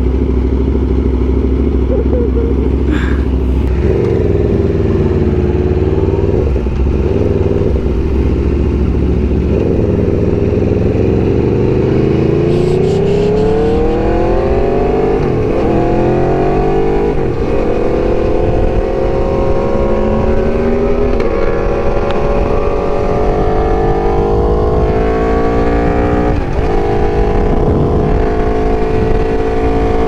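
Aprilia RSV4's V4 engine under way, pitch climbing steadily as it accelerates, with short dips a few times in the second half as it shifts up a gear. Low wind rumble on the microphone over the first third.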